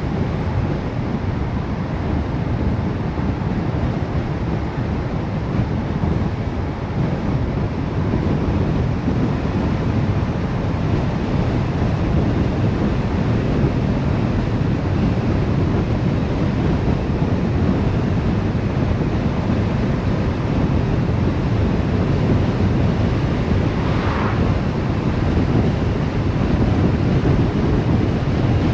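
Steady road and wind noise from a car driving along, rumbling low, with a short higher-pitched sound briefly heard late on.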